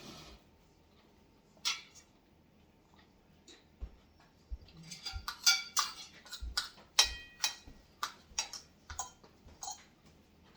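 Cutlery clicking and clinking against plates and dishes at a meal: a few scattered clicks, then a quick run of sharp clinks in the second half, some ringing briefly.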